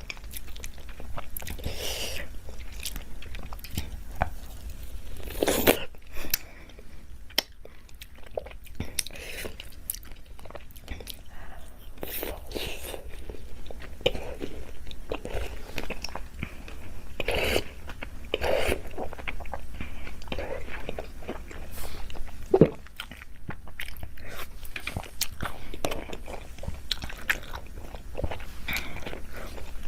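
A person biting into and chewing a lemon: a run of bites and chewing at uneven intervals, the sharpest bites about five and a half seconds in and about twenty-two seconds in.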